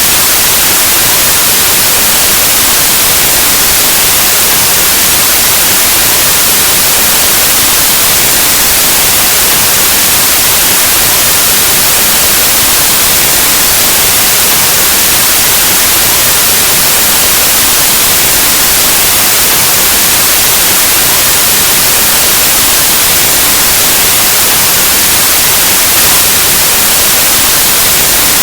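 Loud, steady white noise: an even, unchanging hiss like the static of an untuned analog television or radio.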